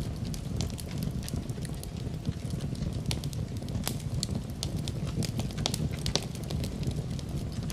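Wood fire crackling: many irregular sharp pops and snaps over a steady low rumble of the burning fire.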